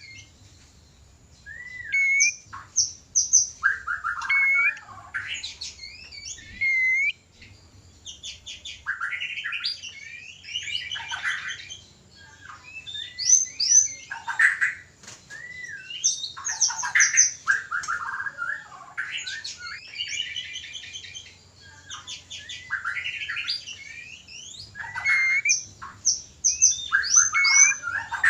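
White-rumped shama (murai batu) mating song: an unbroken run of varied phrases made of clear whistles that slide upward, quick repeated notes and fast rattling trills, with short pauses between them. These are the excited calls of shamas in breeding condition.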